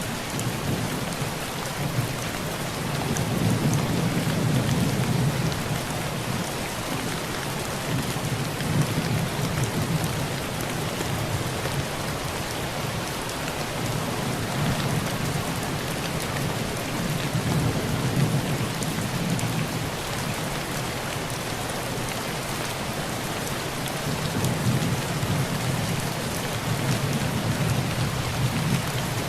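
Heavy rain falling on a tin roof, a steady hiss, with low thunder rumbling in several swells.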